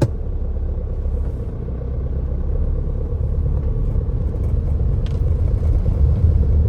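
Tata Harrier SUV driving, heard from inside the cabin as a steady low road-and-engine rumble that slowly grows louder, with one faint click about five seconds in.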